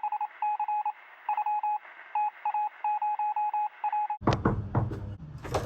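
A series of short electronic two-tone beeps in irregular clusters, like phone keypad tones, stopping about four seconds in. Then a sudden run of loud clicks and knocks with rustling noise.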